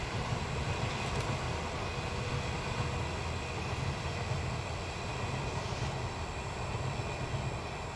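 Passenger train coaches running past, a steady low rumble of wheels on the rails that stays even as the last coaches pass.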